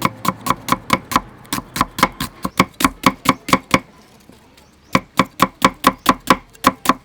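Knife chopping food on a cutting board in quick, even strokes, about five a second, with a pause of about a second near the middle before the chopping starts again.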